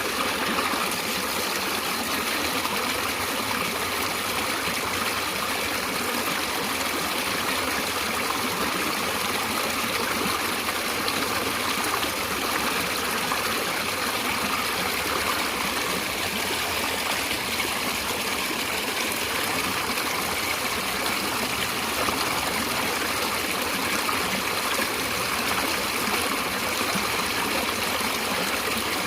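Stream water flowing and trickling in a steady rush, with no breaks or single events.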